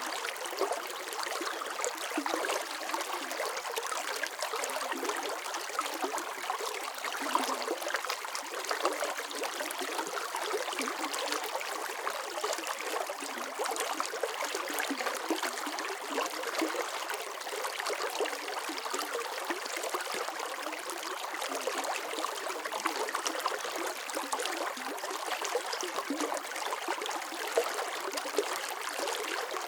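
Running water: a small stream flowing and splashing steadily, with a constant trickle and babble.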